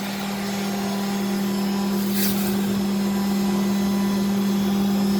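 Vacuum loader for plastic pellets running, its suction motor giving a steady hum with a strong low tone over a rushing air noise, growing slightly louder. A short hiss cuts in about two seconds in.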